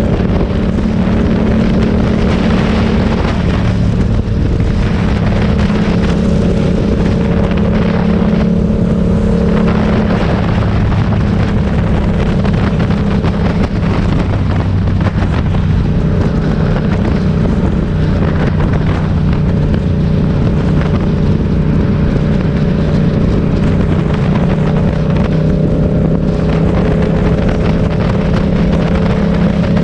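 Motorcycle engine running steadily while riding, holding a nearly constant pitch with small shifts, with wind noise on the microphone.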